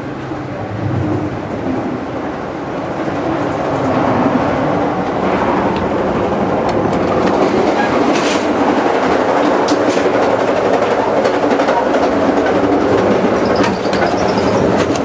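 Amtrak passenger train running at speed, heard from inside the cars: a steady rumble and rush of wheels on rail with occasional clicks, growing louder about four seconds in.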